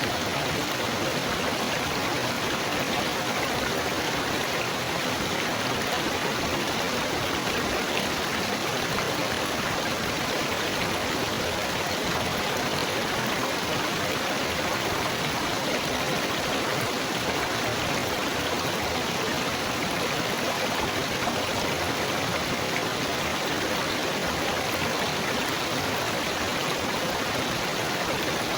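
Trickling, babbling water running steadily and without a break.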